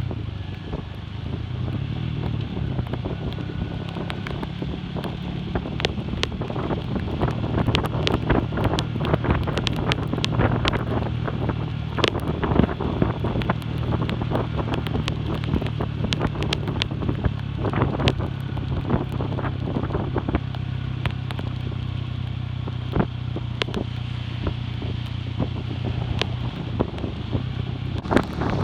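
Classic Earl 150 cafe racer motorcycle engine running steadily while riding, with wind buffeting the microphone and scattered sharp crackles over it.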